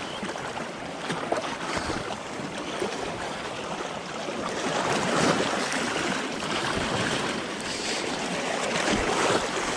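Seawater sloshing and splashing close to the microphone, with the surf washing around. It swells a little toward the middle.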